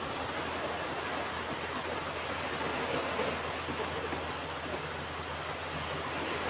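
Ocean waves washing onto a beach: a steady rush of surf that swells and eases gently, with no single wave crash standing out.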